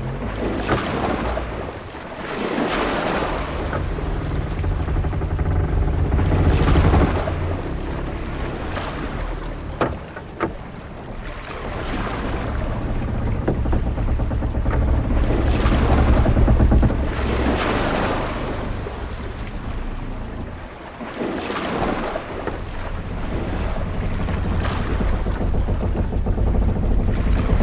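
Ship-at-sea ambience: waves wash and surge against a hull every few seconds over a steady low rumble of wind and sea. A few short knocks come about ten seconds in.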